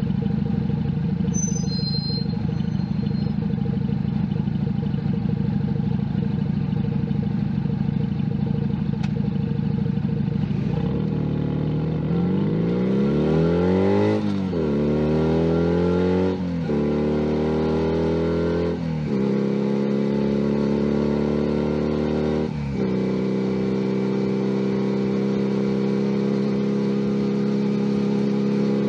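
Junak M11 Cafe's 125cc single-cylinder four-stroke engine idling steadily. About eleven seconds in it pulls away, the revs rising through the gears with four quick upshifts, and it then settles into a steady cruise.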